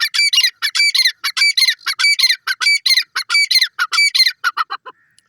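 Grey francolin calling: a loud, shrill series of repeated notes, several a second, that ends with a few lower notes just before five seconds in.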